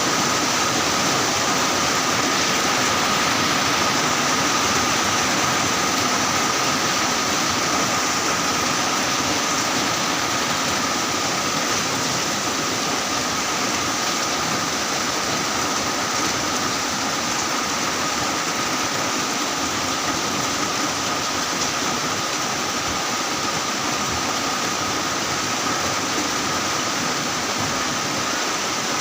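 Heavy rain falling steadily, a dense, even hiss with no let-up, with a faint steady high tone running underneath.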